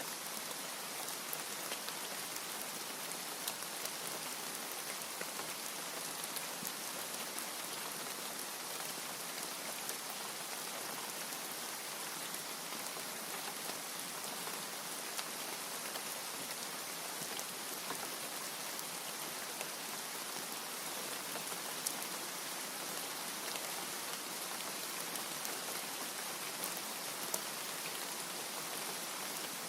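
Steady rain: a dense, even hiss with scattered sharp ticks of individual drops.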